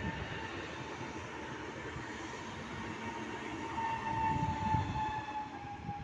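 Electric train running, with a rumble and a motor whine that drifts slowly down in pitch and grows loudest about two-thirds of the way in.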